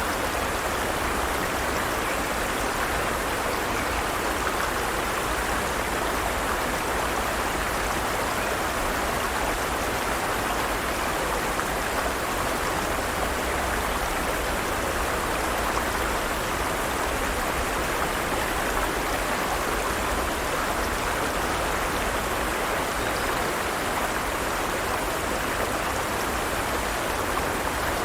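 Forest stream running over rocks: a steady rush of flowing water with no change.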